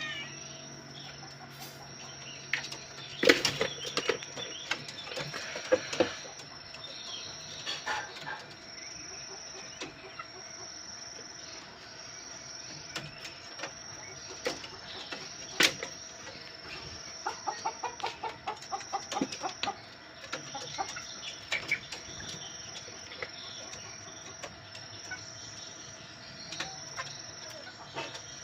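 Chickens clucking and flapping their wings in scattered bursts as they scramble for grasshoppers. A steady high insect trill sounds throughout.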